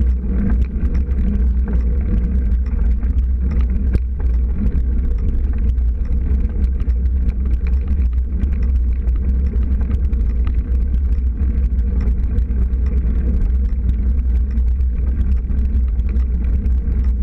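Steady low rumble of riding a bicycle over sand and gravel: wind buffeting the camera microphone and the tyres rolling on the ground, with faint scattered ticks.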